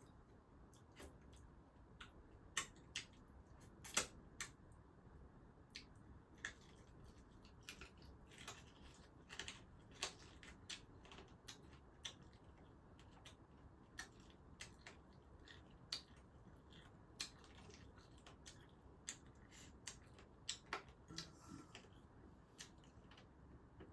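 Quiet eating sounds of someone eating a rice meal: scattered short clicks and smacks, irregular, roughly one or two a second, over faint background hiss.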